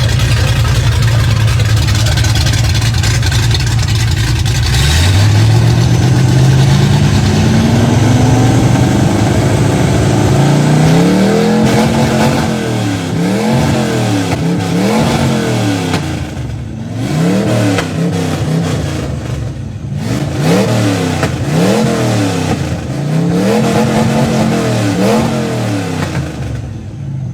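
Gasser drag car's engine running with a loud low rumble. About five seconds in its pitch climbs slowly, and it is then revved up and down over and over in quick throttle blips, about one every second and a half.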